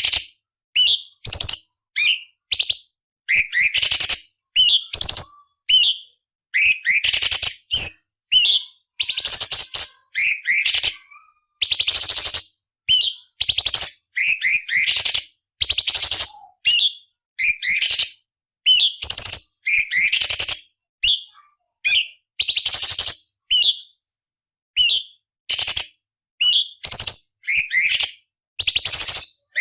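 Orange-bellied leafbird (cucak cungkok) singing a rapid string of short phrases about a second apart. Quick rising whistled notes alternate with harsh, scratchy rasping bursts.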